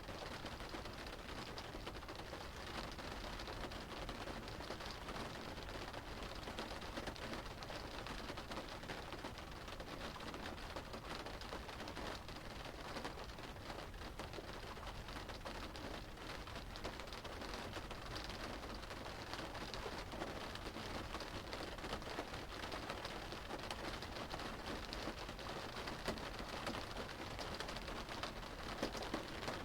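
Steady rain drumming on a car's roof and windows, heard from inside the cabin, with a dense patter of fine drop ticks.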